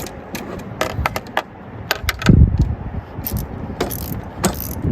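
Irregular metallic clicks and clinks of hand tools and bolts being worked on a car engine, with a duller knock about two seconds in.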